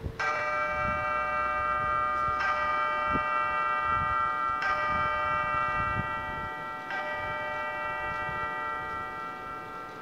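A bell struck four times, about two seconds apart, each stroke ringing on with many overtones that slowly die away.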